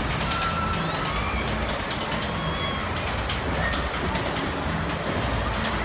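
Fairground thrill ride running: a steady mechanical rumble, with a few faint short gliding tones above it.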